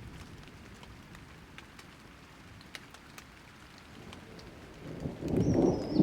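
Light rain falling, with scattered single drops ticking, then a roll of thunder building up loud about five seconds in. A short, high, falling chirp sounds just before the end.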